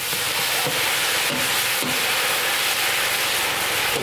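Steady, loud sizzling hiss of mashed hilsa fish and bottle gourd frying in hot oil and onions in a large rectangular cooking pan, giving off clouds of steam.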